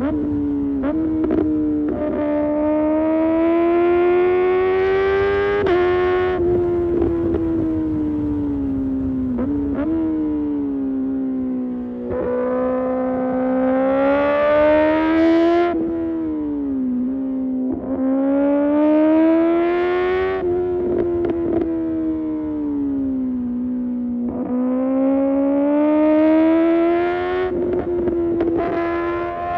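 Kawasaki ZX-6R's inline-four engine through an Arrow Pro Race exhaust, under way: its note climbs steadily under throttle several times, then cuts back and falls away as the bike slows, with scattered sharp pops. This happens about four times.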